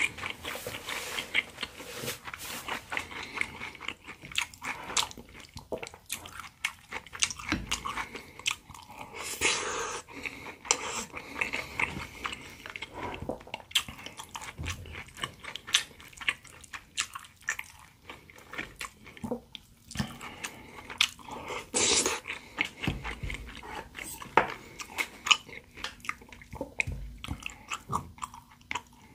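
Close-miked chewing and biting of pan-fried jeon (potato, zucchini and sausage pancakes) and rice: a continuous run of irregular wet crunches and mouth clicks, with a couple of louder bites around ten and twenty-two seconds in.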